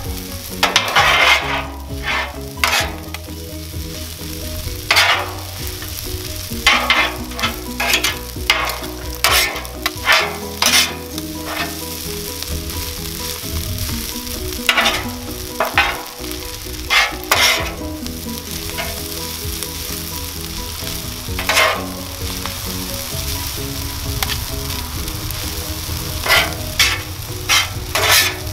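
Fried rice with steak and vegetables sizzling on a hot Blackstone flat-top griddle, with metal spatulas scraping and clacking on the griddle top in repeated, irregular strokes as the food is tossed and turned.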